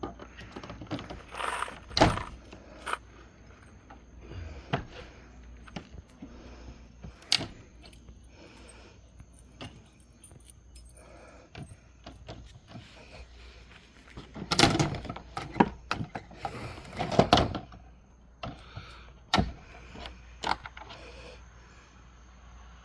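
Brittle thirty-year-old vinyl siding being pried loose with a pry bar: scattered sharp plastic clicks, snaps and scrapes, with a cluster of louder ones about fifteen to seventeen seconds in.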